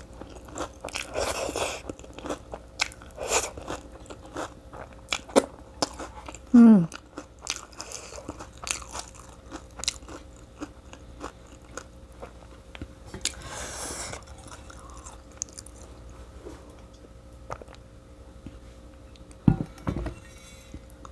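A person chewing and crunching food close to the microphone, with many small sharp bites and mouth clicks. About six and a half seconds in comes a short, loud falling hum.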